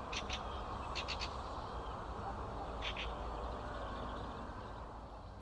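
Short, sharp bird calls in quick clusters of two or three, repeated about every second or two, over a steady low rushing background.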